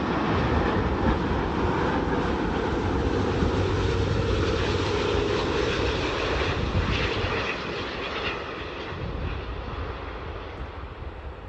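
Jet airliner engines running loud and steady, then fading gradually over the last few seconds as the aircraft moves away.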